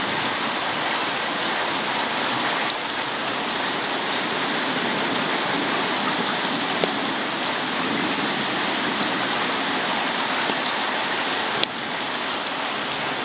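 Heavy rain pouring down steadily in a thunderstorm, with a couple of sharp ticks about halfway through and near the end.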